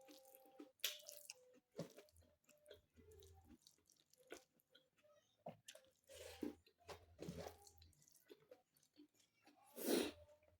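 Close-up eating sounds of a person chewing food: soft wet smacks and mouth clicks at an irregular pace. A louder, noisy burst lasting about half a second comes near the end.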